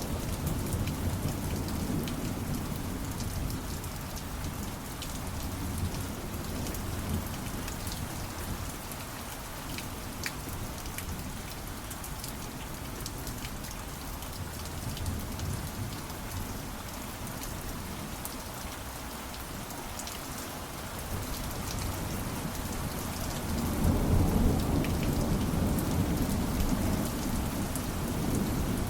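Steady rain with scattered drops, and low rolls of thunder: one near the start and a louder one about three-quarters of the way through.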